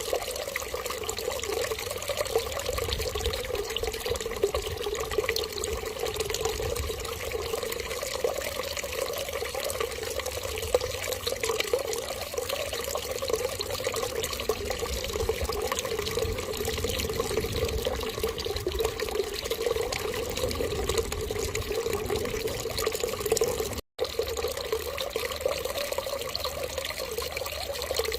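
Steady running water, like a tap trickling, played as a continuous sound to prompt an infant to urinate. It cuts out for an instant about 24 seconds in.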